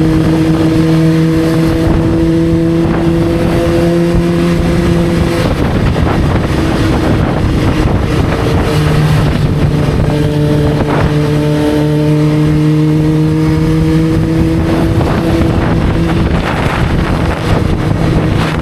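Motorcycle engine running at a steady cruise, its note slowly rising. It drops out briefly about five seconds in and comes back, under a constant rush of wind and road noise.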